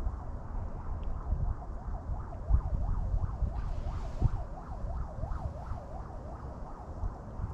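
Wind buffeting the microphone with a low, uneven rumble. Over it, for several seconds, a thin tone warbles rapidly up and down, like a distant siren.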